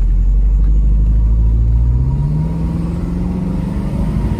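1995 Mercedes-Benz SL500's V8 engine accelerating, its note rising steadily in pitch for about three seconds from a second in, over a constant deep rumble. It runs on a freshly fitted fuel filter and pulls way more peppy.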